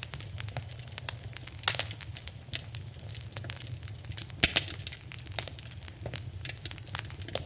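Wood fire crackling in a fireplace: irregular sharp pops and snaps, with one loud pop about four and a half seconds in, over a low steady rumble.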